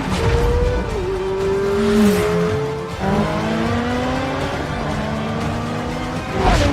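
Racing car engines running hard at speed, the engine pitch climbing slowly and dropping back about two seconds in as if through a gear change. Film score music sits underneath.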